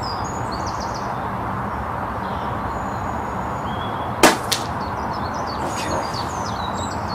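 A single shot from a Brocock Concept PCP air rifle: one sharp crack about four seconds in, followed about a quarter second later by a fainter click, against steady background noise.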